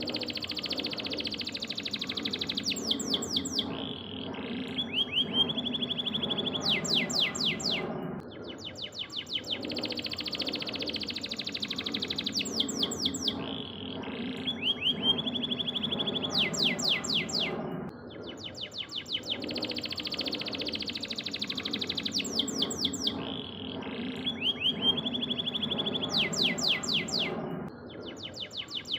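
Yellow domestic canary singing a long song of rapid trills and rolls. The song comes in phrases about ten seconds long, each broken off by a short pause, over a low steady background drone.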